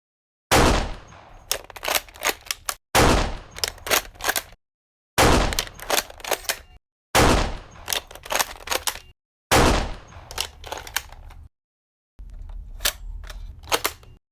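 Dubbed-in gunshot sound effects: five loud shots with a fading tail, each followed by a few sharp clicks, in short separate bursts cut off abruptly into silence. Near the end comes a quieter stretch of clicks with no shot.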